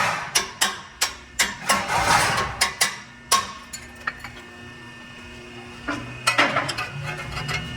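Sharp knocks and clinks of work on steel exhaust pipes: about nine in the first three and a half seconds, then a few more about six seconds in.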